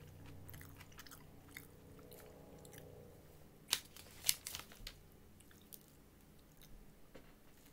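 A person chewing a crispy fried chicken sandwich with mouth noises, and a couple of sharp crackles about four seconds in.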